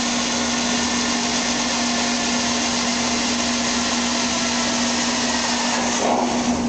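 Drill running steadily with a step drill bit, enlarging a pilot hole in a steel truck bed side, with a steady hum beneath.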